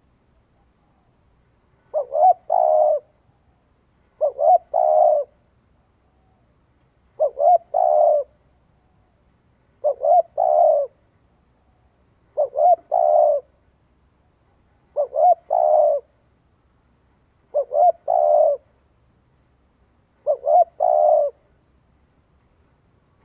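A bird cooing: a short phrase of two brief notes and a longer one, repeated eight times about every two and a half seconds.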